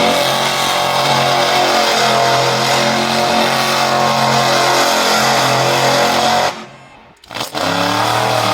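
Monster truck engine revved and held at high revs, a loud steady note, then let off suddenly about six and a half seconds in and revved up again near the end.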